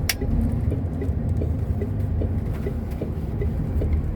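Truck engine running, heard from inside the cab during a slow turn, with the turn-signal indicator ticking steadily about two to three times a second. There is one sharp click just after the start.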